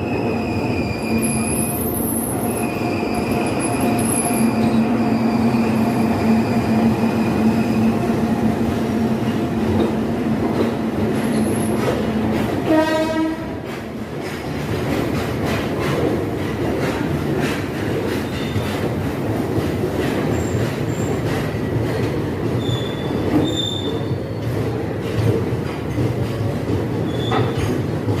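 Express train running, heard from on board: steady wheel squeal for the first eight seconds or so, a short horn blast about thirteen seconds in, then repeated wheel clicks over the rail joints.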